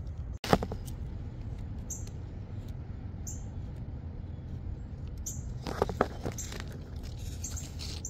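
Small birds chirping now and then in short high notes over a steady low background rumble, with one sharp click about half a second in.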